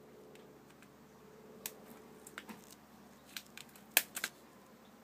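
Hands working open a card mailer: faint rustling of the packaging with a few sharp little clicks, the loudest about four seconds in.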